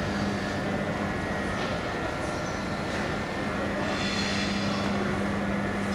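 Regional electric train running into a station: a steady rumble with a constant low hum, and faint higher squealing about four seconds in.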